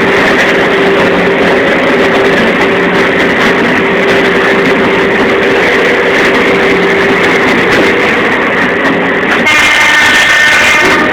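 Alishan Forest Railway train running with a steady noise and hum. Near the end its horn sounds once for about a second and a half.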